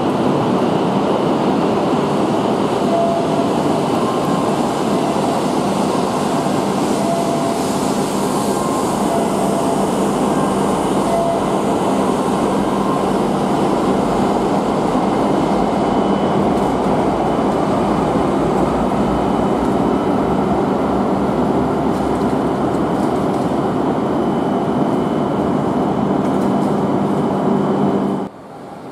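E5-series shinkansen pulling out of the platform and gathering speed: a steady, loud rush of wheels and running gear with a steady hum through it. It cuts off abruptly near the end.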